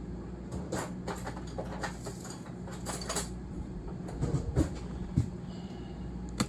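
Scattered clicks, clinks and knocks of kitchen utensils and dishes being handled over a steady low hum, with a few heavier knocks about four to five seconds in.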